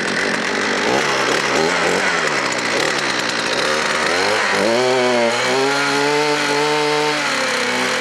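33cc two-stroke weed whacker engine running, idling unevenly at first, then revved up about halfway through, held at high speed for a couple of seconds and let back down near the end.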